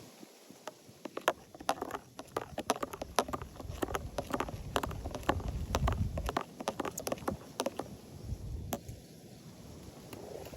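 Irregular crackling and tapping clicks over a low wind rumble on the microphone that swells in the middle.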